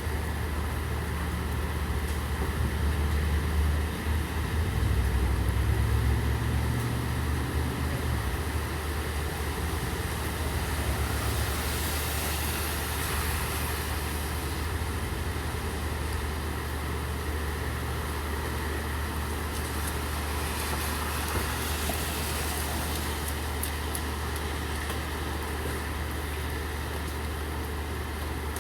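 Steady rain falling on a city street, over a low, steady vehicle engine rumble that grows louder for a few seconds about four seconds in. A higher hiss swells twice, about twelve and twenty seconds in.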